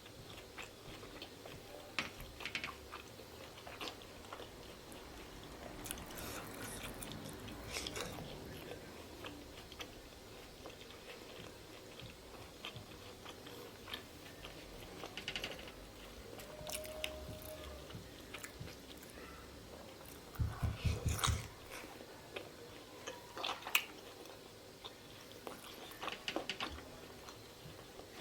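Close-miked chewing and biting of pork momos with raw achar: wet mouth clicks, smacks and occasional crunches, scattered and irregular. A short burst of low thuds comes about twenty seconds in.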